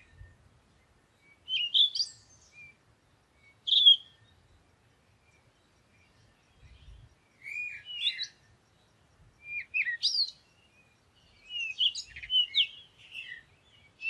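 Birds chirping: short, bright chirps and twittering phrases come in separate bursts every second or two, busiest near the end.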